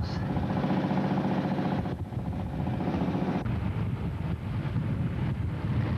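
An engine running steadily, with an even hum for about two seconds that then turns rougher and noisier.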